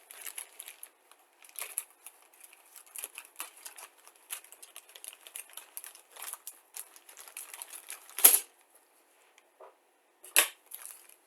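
Plastic sprue bags rustling and crinkling as they are handled, with irregular clicks of the sprues inside, and a louder crackle about eight seconds in and again near ten and a half seconds.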